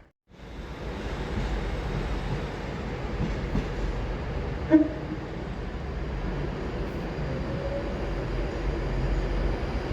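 A train running past with a steady rumble, and a short, loud tone about halfway through.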